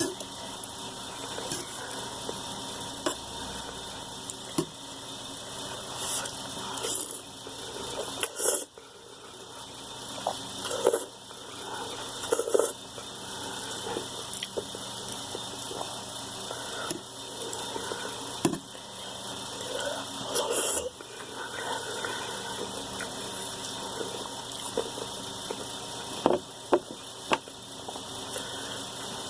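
Someone eating a bowl of ramen noodles: brief, scattered eating sounds and short clicks of utensils against the bowl, over a steady background hiss.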